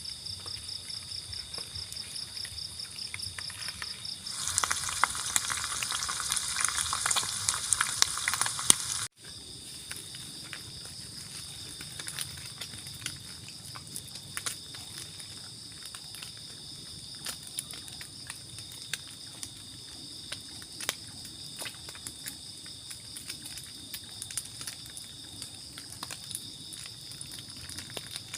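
Fish frying in a pan of oil, sizzling with scattered crackling pops, over a steady high trill of crickets. The sizzle is loudest for a few seconds in the first third and then breaks off abruptly, after which softer pops continue over the insect trill.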